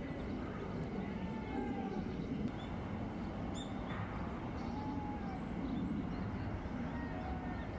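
Faint bird calls, a few short arched whistles and higher chirps, over a steady low rumble.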